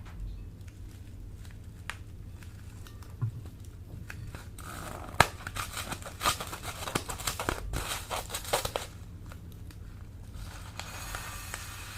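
Slime being handled and pressed, crinkling and crackling. There are a few scattered clicks at first, then a dense run of crackles in the middle that eases off near the end.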